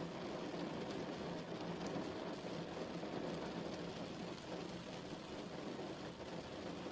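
Steady rain falling, an even rushing patter with no breaks.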